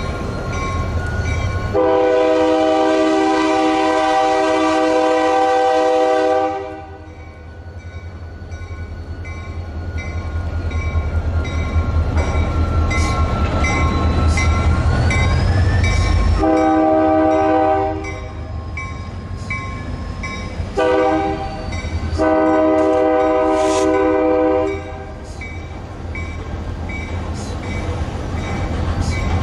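Diesel freight locomotive approaching and sounding its multi-chime air horn four times: a long blast about 2 seconds in, then after a pause a medium blast, a short one and a long one. A steady low engine rumble runs beneath the horn.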